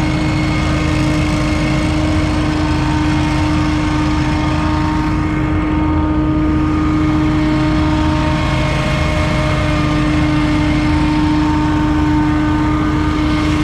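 Stand-on leaf blower running steadily at full power: a constant engine-and-fan drone with a strong steady hum.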